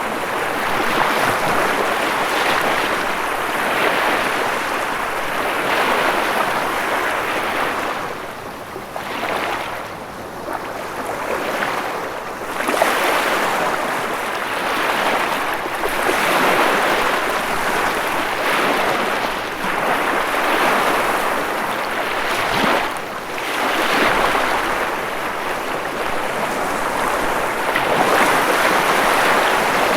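Ocean waves breaking and washing in a continuous surf, swelling and easing every few seconds.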